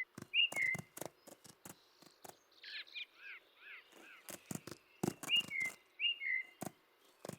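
Small birds calling: short down-slurred two-note calls repeated a few times, and a quick run of chirps about three seconds in. Irregular sharp clicks and knocks sound throughout.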